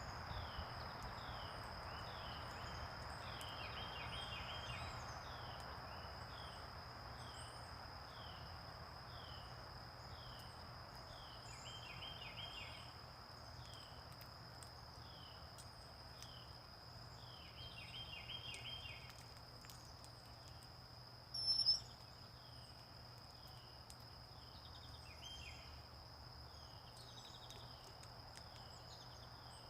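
Backyard birds calling: short falling chirps repeat about once a second, with a few quick rattling bursts of song, over a continuous high, even insect drone. One sharp, loud chirp stands out about two-thirds of the way through.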